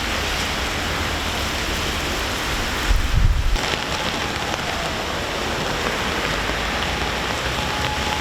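Steady rain falling, with a brief low rumble about three seconds in.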